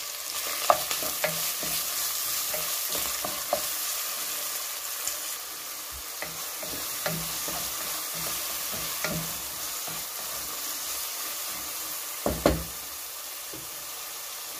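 Diced onion and beef cubes sizzling in hot oil in a pot, stirred with a wooden spoon that knocks against the pot now and then. A louder knock comes near the end, then the stirring stops and the steady sizzle carries on.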